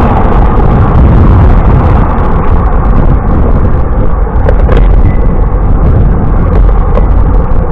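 Wind buffeting the camera microphone while riding a bicycle, a loud, steady, low rumble.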